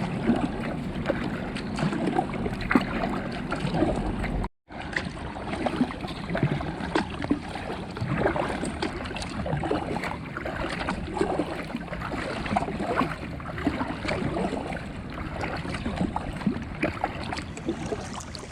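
Water lapping and splashing against a fishing kayak's hull on a choppy sea, in a continuous irregular patter. The sound cuts out completely for a moment about four and a half seconds in.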